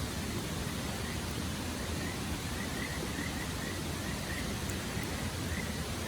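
A steady, even rushing noise outdoors, with a run of faint, short, high chirps from about two and a half seconds in.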